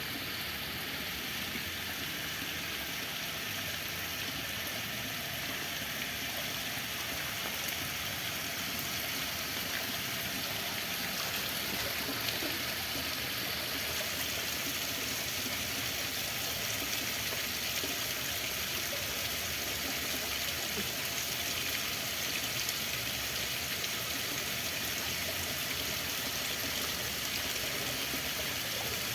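Running water flowing steadily and evenly.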